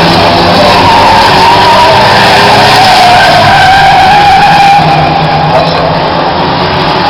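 Euro Rods race cars running hard on the track as a pack, several engines at once with tyres squealing through the turns. Loud and continuous.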